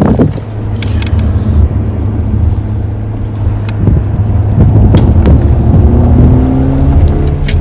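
Synthesised petrol-engine sound of a Lexus UX300e manual EV prototype, played to simulate a combustion engine: a steady low engine drone that rises in pitch near the end as it revs. There are a few short clicks along the way.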